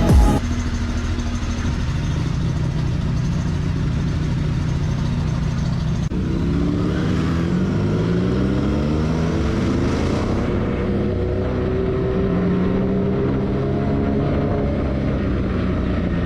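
A vehicle engine running steadily, its pitch rising and falling from about six seconds in as the engine speed changes.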